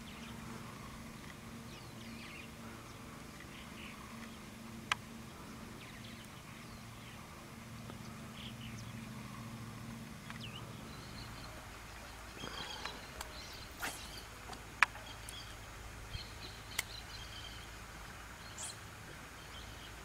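Scattered short bird chirps and calls over quiet lakeside background. A low steady hum underlies the first half and stops a little past the middle, and there are a few sharp clicks.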